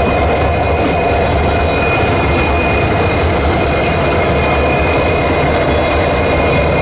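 Passenger train running at speed, a steady loud rumble and rattle of the coaches and wheels on the track, heard from on board, with a steady high-pitched whine over it.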